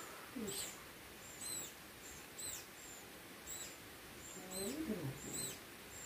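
A small bird repeating a short, high chirp about once a second. A brief low human voice is heard near the end.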